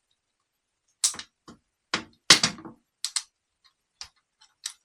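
Small metal parts and hand tools clicking and knocking as a starter motor's solenoid end is taken apart by hand. A run of sharp, irregular clicks starts about a second in, and the loudest is a short clattering knock a little past the middle.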